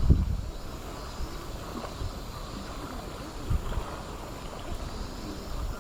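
Wind buffeting the microphone outdoors: a strong low gust right at the start that dies away within half a second, then a steadier low rumble with a few small thumps.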